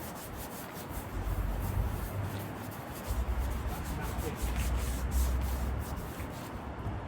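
Repeated rubbing and scraping strokes on a leather car seat, over a low rumble.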